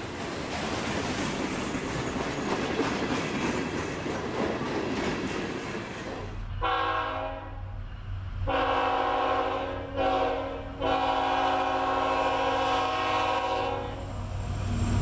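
Freight train rumbling on the rails, then its diesel locomotive's horn sounds the grade-crossing pattern: two long blasts, a short one and a final long one, over the low drone of the locomotive.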